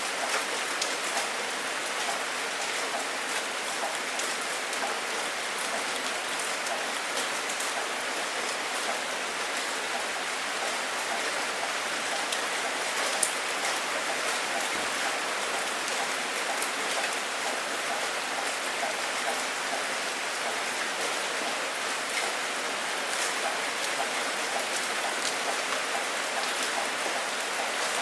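Steady heavy rain falling, a constant hiss with many individual drops ticking and pattering on a surface, and one sharper drop about 13 seconds in.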